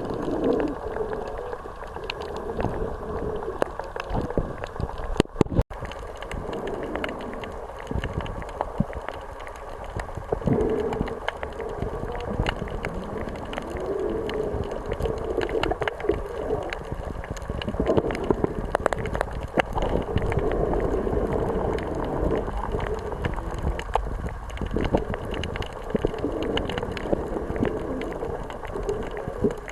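Steady rushing noise of sea and wind on a beach, swelling and easing, with many small clicks and crackles throughout.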